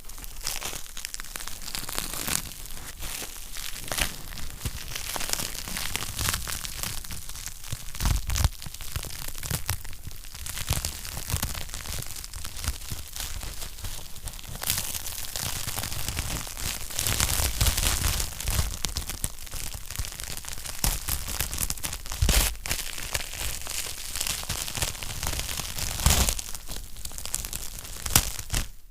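Wood fire burning in a fireplace: dense, continuous crackling with occasional sharper, louder pops.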